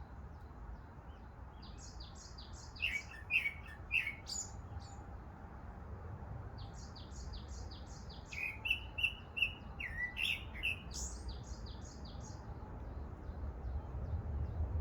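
Songbirds singing: rapid runs of short, high notes come twice, each run lasting a few seconds with a few lower, longer notes in the middle, over a steady low rumble.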